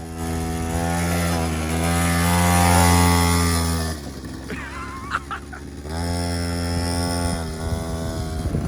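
Small 50cc quad bike engine revving steadily under throttle while it is driven to get out of mud, dropping off about four seconds in and revving up again about two seconds later.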